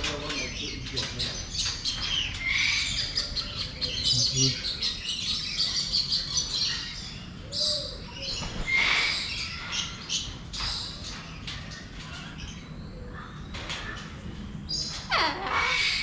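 Many birds chirping and calling over one another, with a loud falling squawk near the end.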